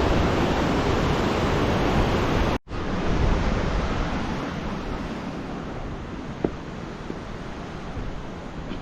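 Steady rushing of a river's flowing water. It cuts out for an instant about two and a half seconds in, then returns quieter and gradually fades.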